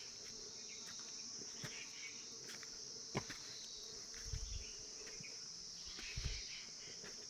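Steady high-pitched insect chorus, with two short low thumps about four and six seconds in.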